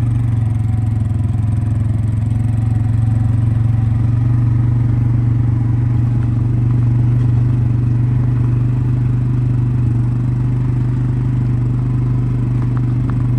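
Polaris Sportsman ATV engine running at a steady speed while being ridden, a constant low drone with no revving. A couple of faint clicks near the end.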